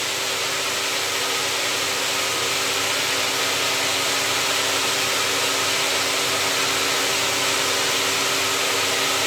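A machine's engine running at a steady speed: an even noise with a constant hum of a few fixed tones, unchanging throughout.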